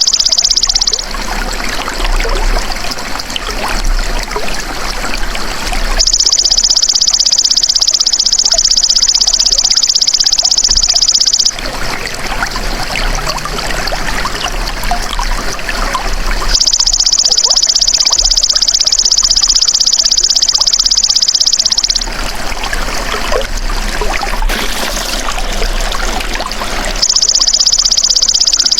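A belalang emas insect singing a steady, high-pitched buzzing trill in bouts of about five seconds, with pauses of similar length between them. Trickling water is heard in the pauses.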